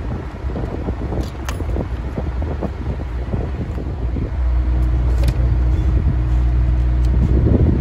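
Toyota Sienna V6 engine running: an uneven low rumble at first, settling about four seconds in into a steady idle hum.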